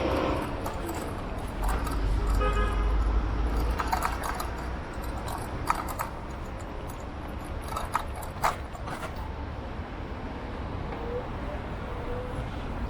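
Road and wind rumble from riding an electric bike through traffic, loudest in the first few seconds. A few sharp clicks and rattles come from the middle onward.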